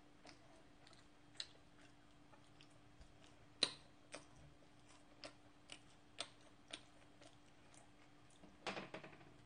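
Faint, irregular wet mouth clicks and smacks of someone chewing a mouthful of food close to the microphone, one a little louder about halfway through, over a faint steady hum.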